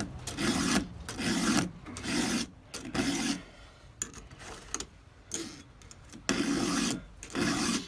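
4 mm round file rasping across the cutter teeth of a Stihl 200T's chainsaw chain in steady push strokes, about one every 0.7 seconds. The strokes stop for about three seconds in the middle, then two more strokes come near the end.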